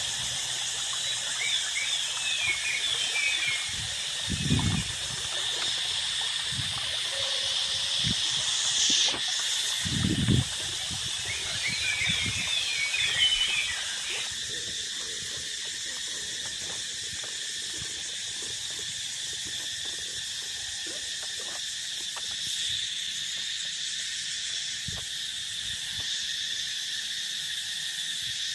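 A steady chorus of insects and frogs in the fields, a layered high drone. In the first half, quick chirping calls come and go twice over the drone, with a couple of low bumps.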